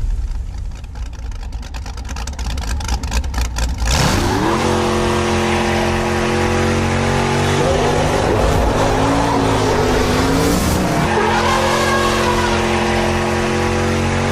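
Big car engine running with a rough, uneven idle. About four seconds in it jumps to a loud, sustained run, with rising and falling squeals over it. The engine is likely the Dodge Super Charger's supercharged Hellephant 426 HEMI V8.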